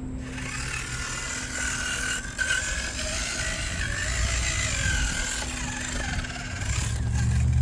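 RC rock crawler's electric motor and gearbox whining as the truck crawls, the pitch rising and falling with the throttle. A deeper steady hum comes in near the end.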